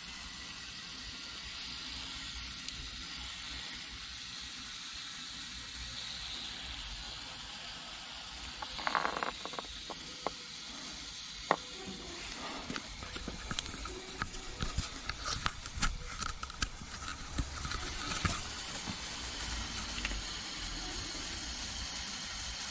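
Tyre-sealant aerosol discharging through its hose into a car tyre's valve: a steady hiss of foam and propellant, joined about nine seconds in by irregular crackling clicks. The tyre is being filled with sealant foam and starting to inflate.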